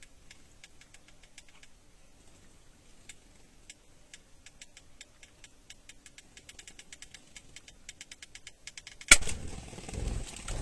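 Faint irregular ticking and pecking-like clicks, then a bird trap springing with one sudden loud snap about nine seconds in, followed by a brief scuffle of thuds and rustling.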